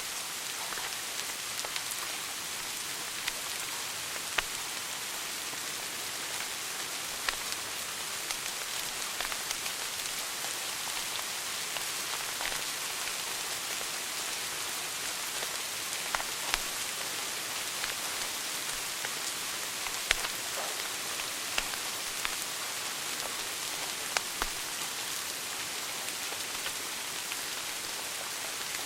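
Wood fire burning in a fireplace: a steady hiss with scattered sharp crackles and pops from the burning logs.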